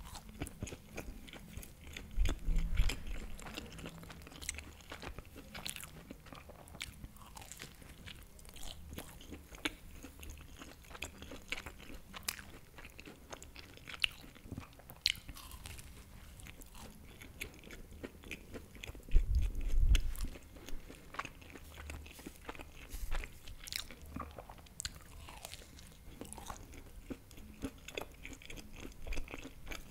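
Close-miked chewing and biting of a baked empanada with a flaky pastry crust: crisp crunches and many small wet mouth clicks. Two louder dull thumps stand out, about two seconds in and again about twenty seconds in.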